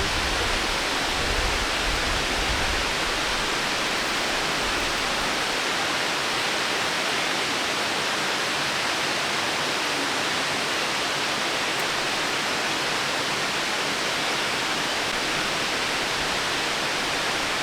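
Steady, even rush of a waterfall, with some low rumble in the first few seconds.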